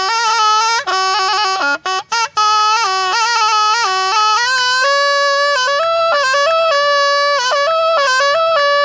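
Thai pi (quadruple-reed oboe) playing a solo melody with a bright, reedy tone and quick ornamented turns. It breaks off briefly three times about two seconds in, then moves up to a higher register and holds longer notes.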